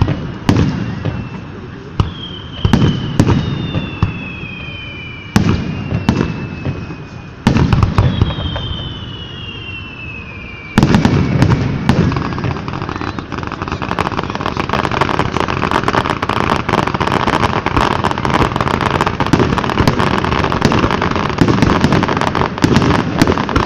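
Fireworks going off: a series of sharp bangs, several trailed by a whistle that falls in pitch. About eleven seconds in, a dense crackling of many small pops begins and continues.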